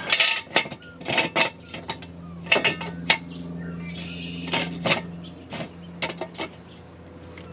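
Sharp, irregular metal clanks and clinks as steel jack stands and a floor jack are set under a car, over a steady low hum.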